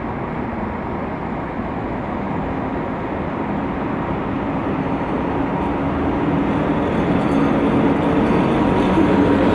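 A train approaching, its rumble growing steadily louder, with a low engine tone coming up in the second half.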